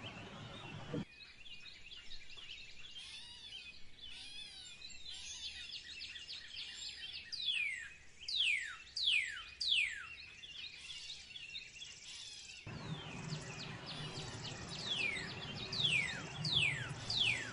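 Birds calling faintly in the background: series of quick, downward-sliding whistled notes, one cluster about halfway through and another near the end, with softer chirps between.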